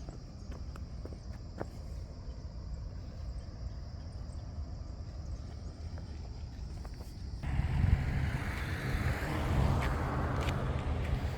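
Crickets chirping steadily, with footsteps crunching. About seven seconds in this cuts off abruptly and a motor vehicle's engine runs close by.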